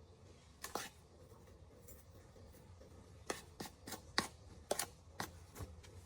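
A series of short, irregular light clicks and scratchy snaps, one about a second in and a quicker cluster of six or seven in the second half, like small objects or a hand tool being handled close up.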